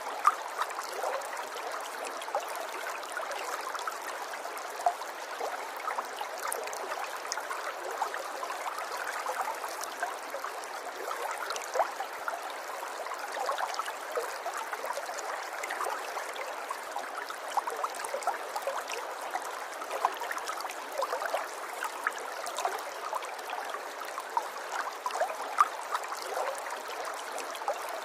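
River water flowing and trickling over stones, a steady burble dotted with small plinks and splashes.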